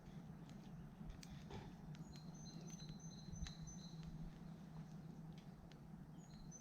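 Faint outdoor ambience: a small bird calling in a run of short, evenly repeated high notes about two seconds in, over a low steady hum with scattered light clicks and crackles.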